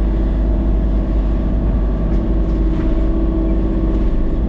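A vehicle engine running steadily at constant speed, with a steady hum.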